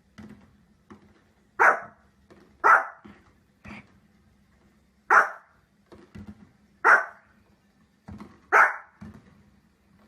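A dog barking: five loud single barks, spaced one to two and a half seconds apart, with fainter short sounds between them.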